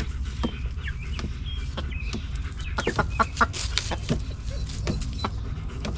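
Mother hen clucking to her newly hatched chicks as they come out into a new coop, with many short chick peeps scattered throughout.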